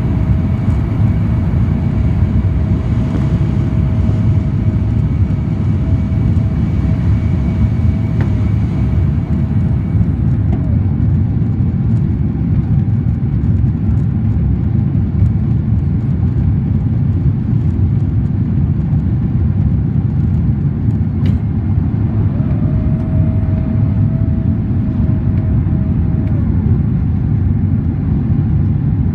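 Jet engine and airflow noise inside the cabin of a Boeing 767-400ER: a loud, steady low rumble. A faint steady whine rides over it, fading out about ten seconds in and coming back for a few seconds near the end.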